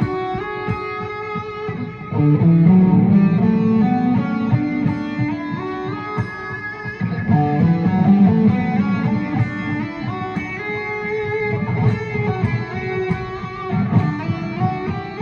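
Guitar playing a melodic line in D Lydian, single notes moving over ringing lower notes.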